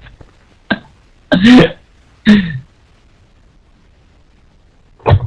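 A person's voice making two short, wordless vocal sounds with a falling pitch, like a throat-clear or grunt, after a faint click.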